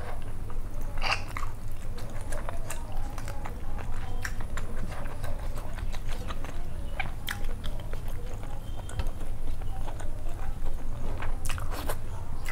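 Close-up chewing and wet mouth smacks of a person eating rice and curry by hand, with many short sharp clicks, over a steady low hum.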